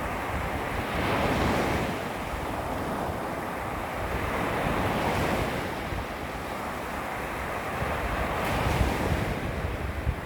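Small waves lapping and washing against a beach shoreline, swelling and receding every few seconds. Wind buffets the microphone as a low rumble.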